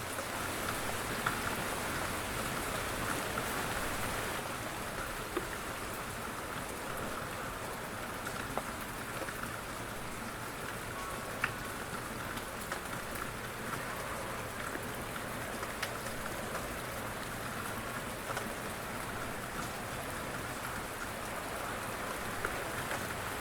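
Light rain falling steadily, with scattered individual drops ticking on a surface and one sharper drip about halfway through.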